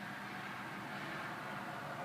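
Steady background noise: an even hiss with a faint low hum underneath.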